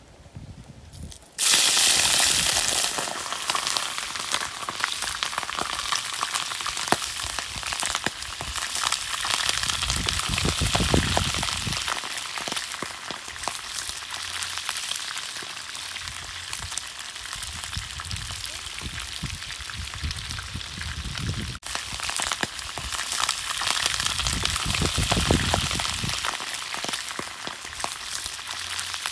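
Chopped duck organs dropped into a pan of hot oil: a sudden loud sizzle about a second and a half in, settling into a steady frying hiss as they are stirred with a bamboo stick.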